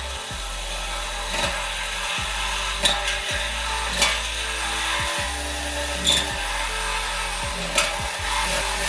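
Metalwork on a car's exhaust pipe at an exhaust shop: a steady harsh hiss of power-tool cutting or welding, with a sharp click every second or two. A bass line of background music runs underneath.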